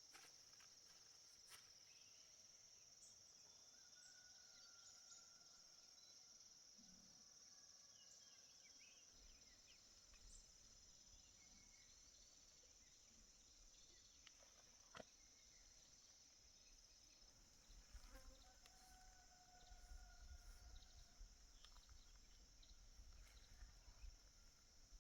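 Faint, steady insect chorus of crickets, a continuous high chirring, with a few faint whistled bird calls and scattered soft clicks. A low rumble comes in after about nine seconds.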